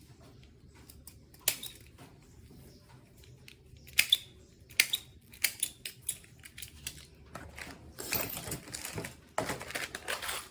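Scattered sharp clicks and light knocks of small objects being handled, with two longer rustling stretches near the end.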